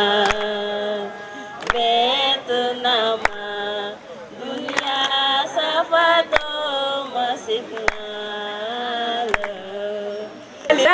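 Voices singing a chant-like song, with a sharp knock or clap about every one and a half seconds.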